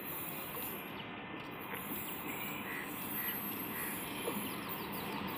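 Steady low noise that slowly grows louder as an EMU local train approaches, with scattered short bird chirps over it.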